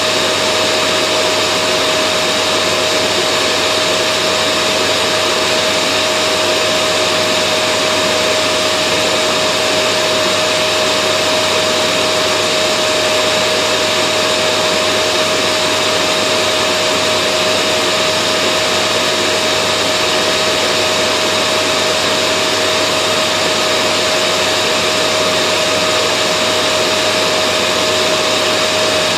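Vacuum cleaner running steadily: an even rushing noise with a single steady whine held throughout.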